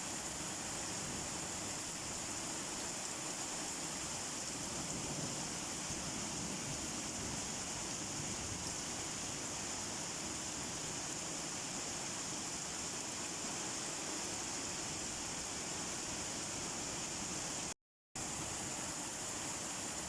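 Steady rain, an even hiss, that cuts out for a split second near the end and then carries on.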